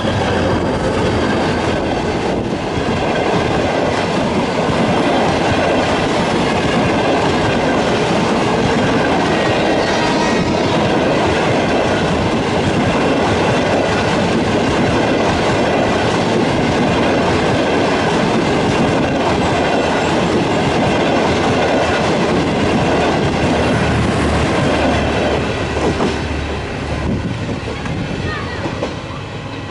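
General Motors GT22 diesel locomotive and its passenger coaches passing close by: a loud, steady rumble with the wheels clattering over the rail joints, which fades near the end as the train moves away.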